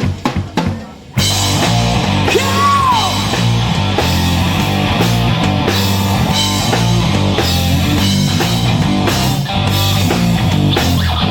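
Live heavy rock band with distorted electric guitar, bass and drum kit. A few separate drum hits open it, then the full band comes in about a second in, with a bent guitar note just after.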